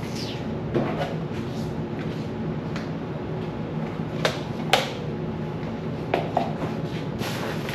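Scattered light knocks and clicks of items and fittings being handled while cleaning out a refrigerator, the two sharpest a little past the middle, over a steady low hum.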